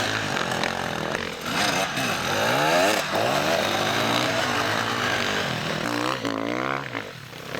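Several dirt bike engines revving hard, their pitches rising and falling and crossing over one another. About six seconds in, one bike revs up and back down before the sound fades.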